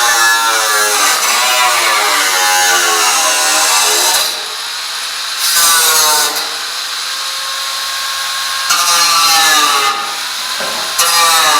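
A hand-held power tool running under load in several spells, its motor pitch sagging and recovering as it works the material. It eases off about four seconds in, comes back hard about a second later, and eases off once more near the end.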